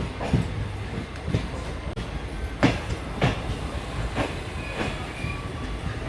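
A moving train: a steady low rumble with irregular clacks of the wheels passing over rail joints, the loudest about two and a half seconds in.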